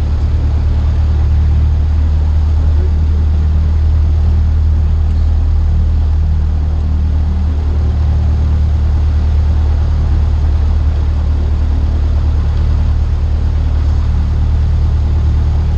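Cessna 152's Lycoming O-235 four-cylinder engine and propeller running steadily, a loud low drone heard from inside the cockpit.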